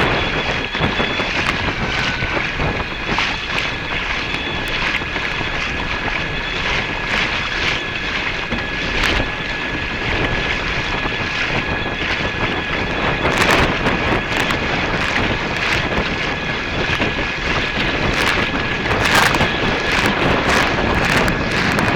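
Wind buffeting the microphone and water rushing as a Torqeedo electric-motorised angling kayak moves across the water. A few steady high tones run through it, with short splashy bursts scattered throughout.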